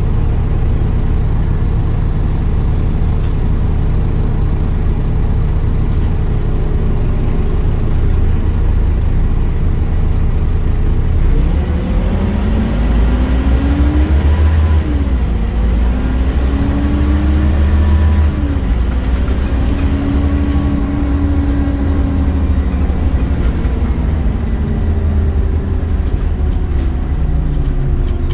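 Scania OmniCity bus's diesel engine running steadily at first, then pulling away about halfway through, its pitch rising, dropping at a gear change and rising again. The engine then holds its pitch and falls away near the end as the bus eases off.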